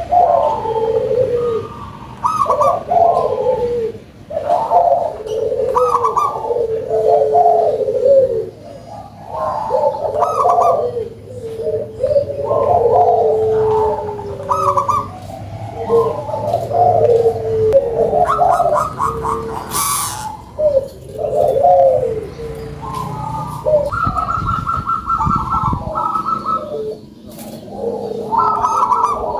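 Zebra dove (perkutut) cooing, its phrases coming one after another with short pauses between them.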